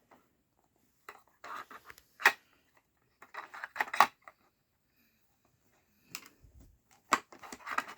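Plastic pieces of a dog's sliding treat puzzle toy clicking and clattering in short bursts as the dog nudges and pushes them around.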